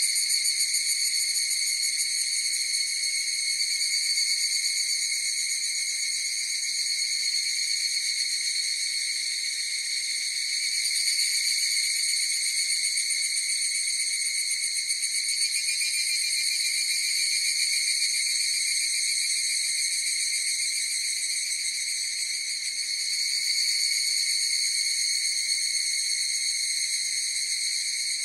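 A chorus of higurashi (Tanna japonensis, evening cicadas) calling, their overlapping calls merging into a continuous high ringing that swells and eases slightly.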